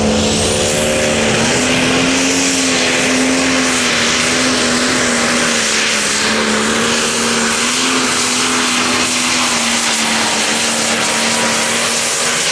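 Turbocharged diesel pulling tractor running flat out under load, a loud steady engine drone with a high turbo whistle that rises in the first second and then holds.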